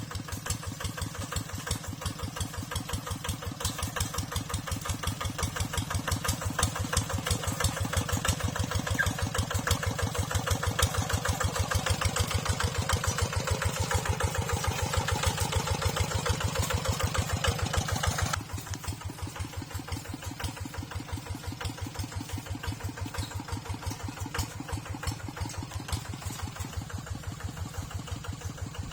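Tractor engine running with a steady, even beat, louder through the middle, then dropping suddenly to a quieter steady run about two-thirds of the way through.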